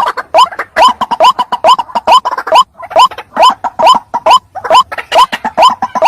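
White-breasted waterhen (ruak-ruak) calling in a fast, steady series of short, upward-hooked notes, about two and a half a second. This is a lure call, used to bring other waterhens in.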